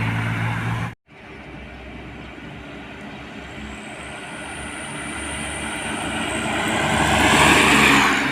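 A truck's diesel engine drones steadily and cuts off abruptly about a second in. Then another truck approaches on the road, its engine and tyre noise growing steadily louder with a high whine, and passes close by near the end.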